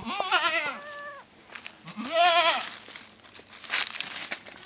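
Goat bleating twice with a quavering call: a longer bleat at the start and a shorter, louder one about two seconds in.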